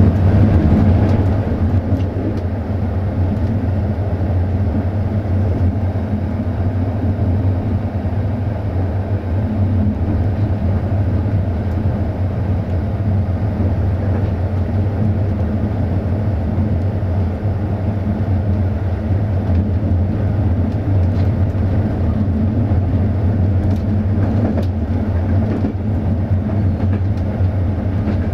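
Passenger railway coach running at speed, heard from inside the carriage: a steady low rumble of wheels and bogies on the track, with a few faint clicks near the end.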